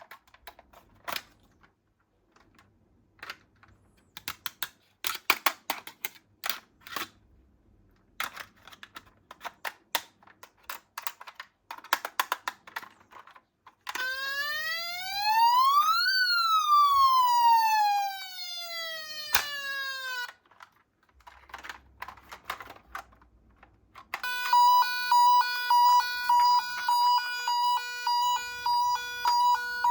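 Clicks and rattles of small toy police cars being handled, then a toy car's electronic siren sweeps up in pitch and slowly back down once. Near the end a second electronic toy siren sounds in a steady pulsing beep, about two beeps a second.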